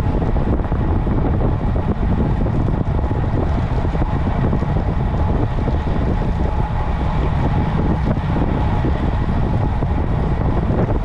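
Steady wind buffeting on the microphone of a camera riding on a moving bicycle: a continuous low rumble with no breaks.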